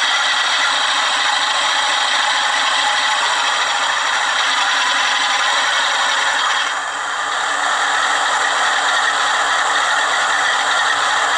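Hornby TTS sound decoder in a Bachmann Class 47 model locomotive playing a diesel-locomotive sound effect through a small speaker: a steady rattling, mechanical noise, dipping briefly about seven seconds in.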